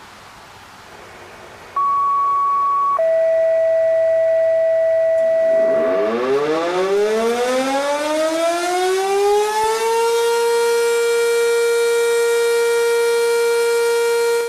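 Air-raid siren: a steady tone comes in about two seconds in and drops to a lower tone a second later, then the siren winds up, rising in pitch over about four seconds, and holds a steady wail.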